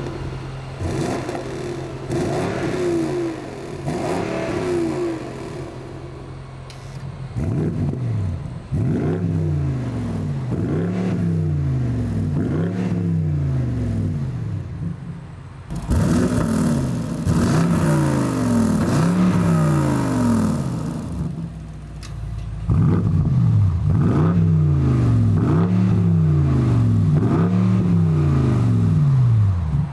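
BMW M550i's twin-turbo V8 being revved through its exhaust in quick repeated blips, each rising and falling in pitch, about one a second. It comes in a few separate takes, and the later ones are louder.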